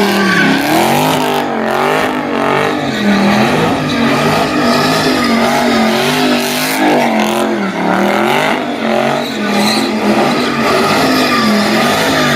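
Car engine revving hard, its pitch rising and falling over and over about once a second, over a continuous squeal of spinning tyres.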